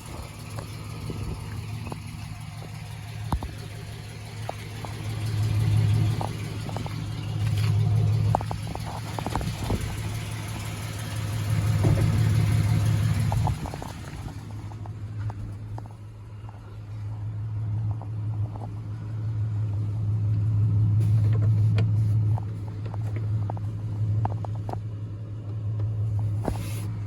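2005 Chevrolet Silverado 1500 engine running with a low drone that swells louder and eases back several times, with scattered clicks and knocks.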